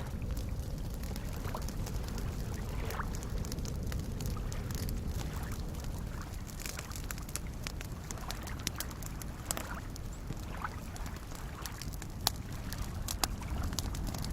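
Campfire crackling, scattered sharp pops that come more often in the second half, over a steady wash of soft lake waves lapping.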